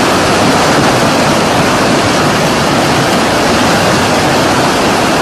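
Loud, steady rushing noise with no distinct events, of the kind made by strong wind on the microphone or by heavy surf.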